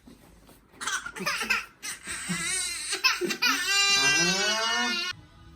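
An 11-month-old baby vocalizing in short high-pitched sounds, then one long wail in the second half that stops suddenly about five seconds in.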